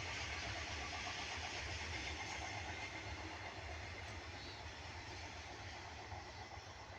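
Train running along the track: a steady rumble that slowly fades as it moves away.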